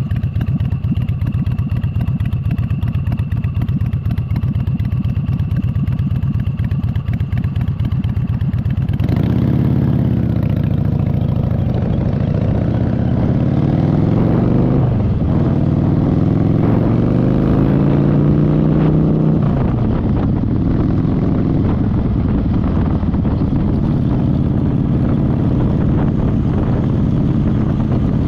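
Motorcycle engine idling with a steady low beat, then about nine seconds in pulling away: the pitch climbs and drops through a few gear changes, then settles into steady running.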